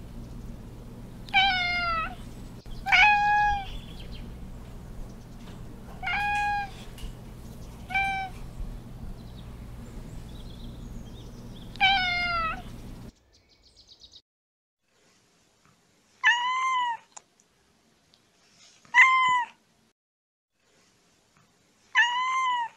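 Domestic cats meowing: five loud meows over a steady low background hum. After a sudden drop to quiet about thirteen seconds in, a kitten gives three higher mews a few seconds apart, each rising and falling in pitch.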